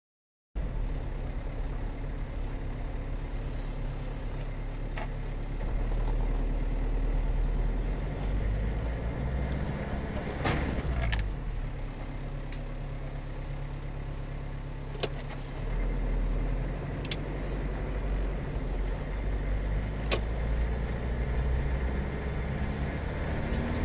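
Steady low engine and road rumble of a moving car, heard from inside the cabin. A sweeping sound rises and falls about ten seconds in, and three short sharp clicks come later.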